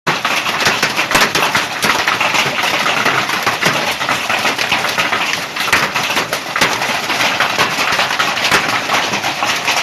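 Hailstorm: a dense, continuous clatter of hailstones pelting down, many sharp individual hits over a steady hiss.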